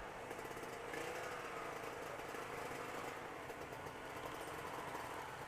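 Motorcycle engine running steadily while riding, a fast, even chatter with no change in speed.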